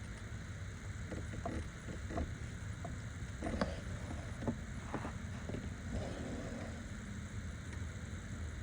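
Scattered light clicks and knocks of metal parts and hands working at an AC compressor mount, heard over a steady low hum. The knocks are spread through the first half.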